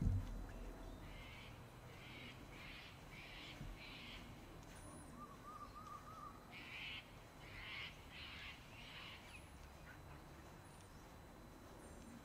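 Birds calling: one bird gives two runs of four or five harsh, rasping calls, with a short warbling call between the runs and faint high chirps from small birds. A low bump comes right at the start.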